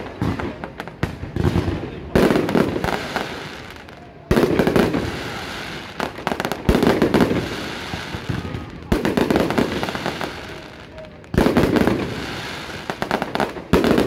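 Mascletà fireworks going off in six loud blasts about every two seconds, each followed by a fading crackle.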